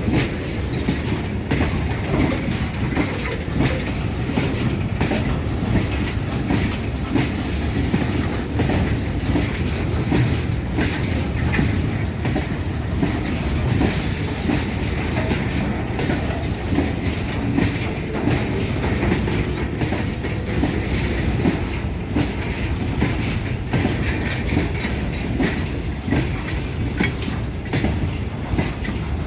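Indian Railways goods train running on the track, its wagon wheels clattering steadily over the rail joints in a dense run of clicks.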